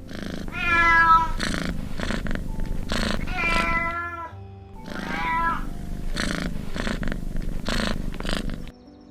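Kitten meowing three times, drawn-out wavering mews, over background music with a beat.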